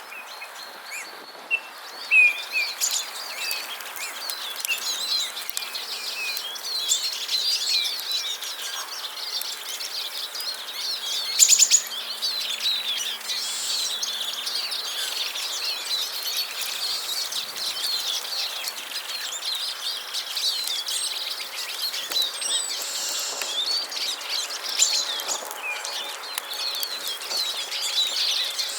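Many small songbirds chirping and twittering, a dense, continuous chatter of short high calls, with one brief louder burst a little before the middle.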